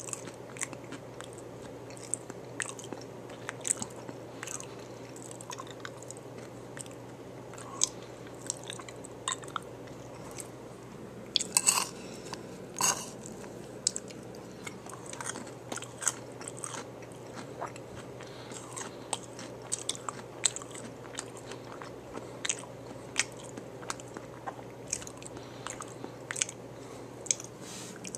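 Close-up chewing and crunching of a taco bowl with a hard tortilla shell: irregular crisp crunches and wet chewing, with a couple of louder crunches about twelve seconds in.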